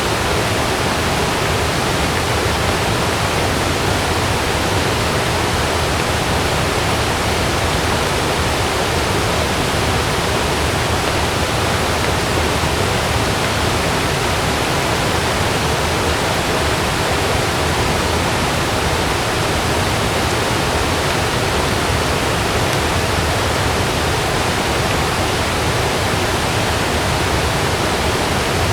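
Heavy rain falling steadily on a camping tent, an even, unbroken hiss.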